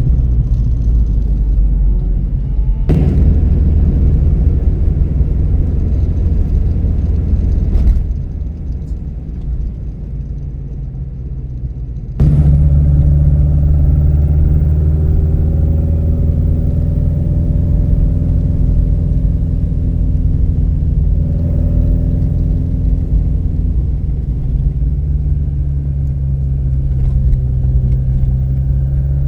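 A car engine running steadily: a loud low rumble with a steady hum. It is broken by several abrupt cuts, with a quieter stretch for a few seconds before the engine sound returns, louder and steadier.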